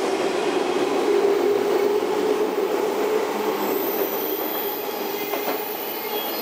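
JR 185-series electric express train rolling past as it pulls out, a steady running hum with wheel noise on the rails, easing off a little near the end as the last cars go by.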